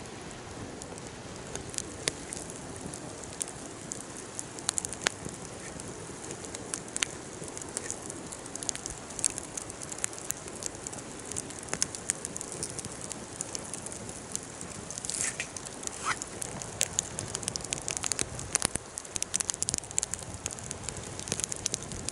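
Wood fire burning, crackling with frequent sharp pops and snaps over a steady hiss.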